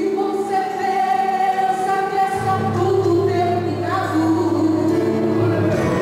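Gospel worship music: a group of voices singing together with accompaniment, with a low bass note entering about two and a half seconds in.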